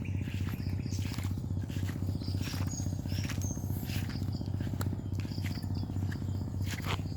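A steady low throbbing hum with a fast even pulse, like a small motor running, with short high chirps of insects or birds over it.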